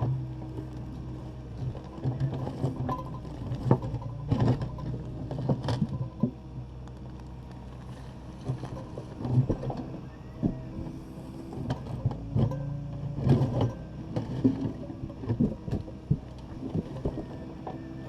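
Takeuchi TB260 excavator's diesel engine running steadily, with irregular knocks and clatters scattered throughout as the bucket works broken concrete from the garage floor.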